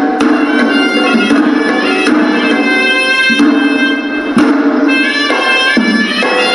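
Hewisi, Sri Lankan temple ritual music: a horanewa reed pipe plays a melody, shifting from note to note, over a steady pattern of drum strokes from davul and tammattama drums.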